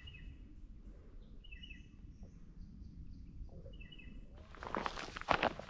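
Birds calling in short groups of quick repeated chirps over a low background hush. About four seconds in, a walker's footsteps on the trail start up and are the loudest sound.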